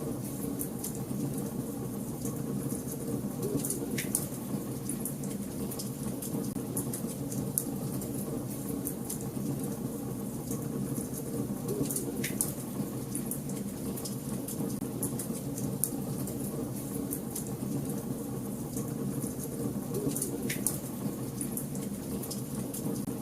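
Wood fire burning in a fireplace, crackling steadily, with three sharper pops spread through it.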